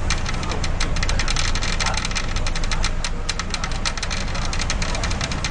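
Strong gusting wind buffeting the microphone: a heavy, steady rumble with rapid irregular crackling.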